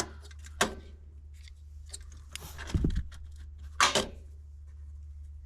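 Small parts being handled by hand: a few sharp clicks and light clatter, with the loudest click about four seconds in, over a steady low hum.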